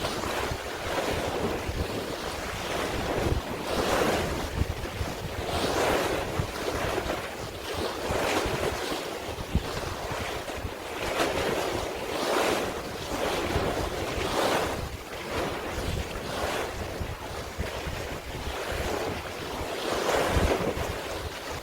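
Sea waves washing, surging about every two seconds, with wind buffeting the microphone.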